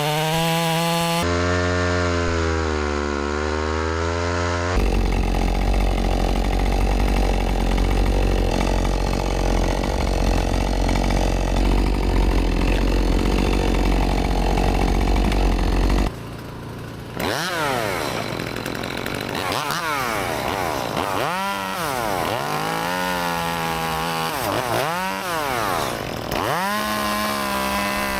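Gas chainsaw cutting wood. Its engine note dips under load early on, runs steady at full throttle through the middle, and near the end rises and falls about six times as it is revved and eased off between short cuts.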